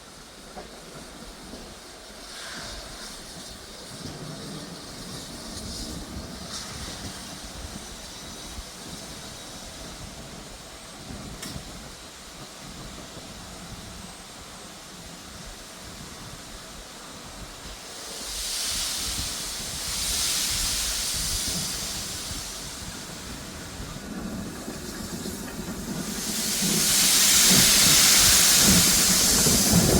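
Steam locomotive with a low rumble, then two bursts of hissing steam about two-thirds of the way in and a louder, longer hiss of steam near the end.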